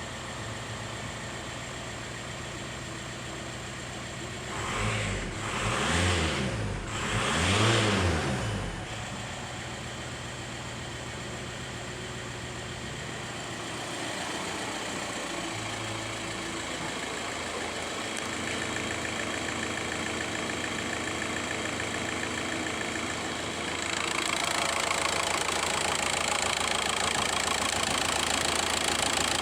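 VW Golf engine idling, blipped three times in quick succession a few seconds in, each rev rising and falling back to idle. It then idles steadily, getting louder near the end.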